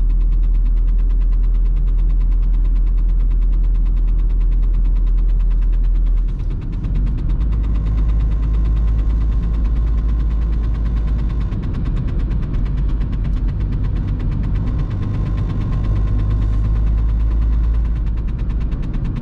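Inside the cabin of a VW Golf Mk3: the four-cylinder 1.9 TDI (1Z) diesel engine running under way, with road noise. The sound dips briefly about six seconds in, then carries on steadily.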